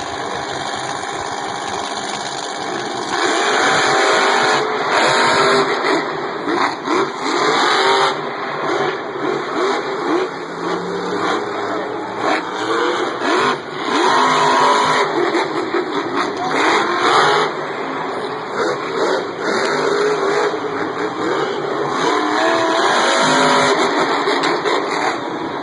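Monster truck engines revving hard again and again, their pitch rising and falling over a loud, steady engine noise, which grows louder about three seconds in.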